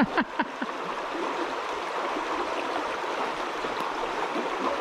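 River water rushing steadily, with a few brief sharp sounds in the first half second.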